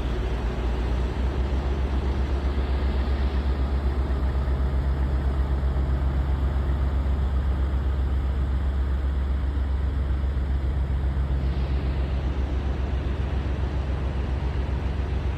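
Diesel semi-truck engine idling: a steady low hum with a fast, even pulse.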